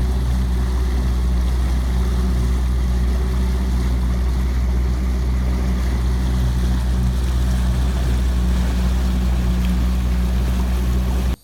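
Steady engine drone with a strong deep rumble and an even hiss over it, cutting off abruptly near the end.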